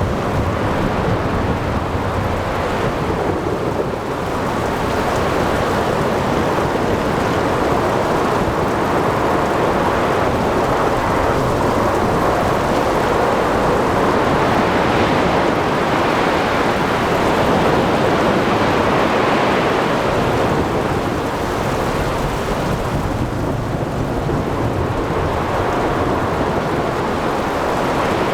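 Thunderstorm at sea: heavy rain and rumbling thunder in a dense, steady rush that swells and eases gently.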